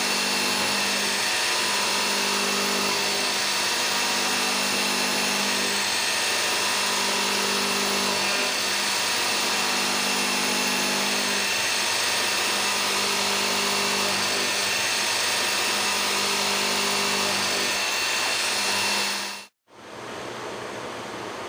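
Citizen M32VIII Swiss-type CNC lathe running while machining: a steady hiss with a low hum and a high whine held under it, the hum shifting slightly in pitch partway through. Near the end it cuts off abruptly into a quieter, even hiss.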